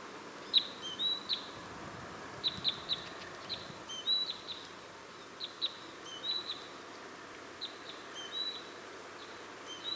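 Small songbirds singing: short high phrases of a few quick notes ending in a brief whistle, repeated every second or two.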